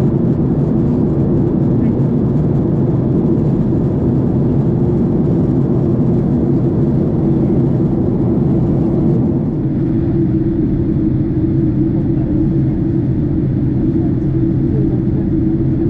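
Boeing 767 cabin noise in flight: a steady, loud drone of the jet engines and rushing air. It eases slightly a little past halfway.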